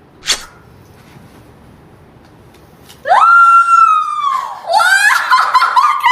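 A quiet stretch with one short whoosh, then about three seconds in a loud, high wailing cry begins: it rises, holds, slides down, and starts again.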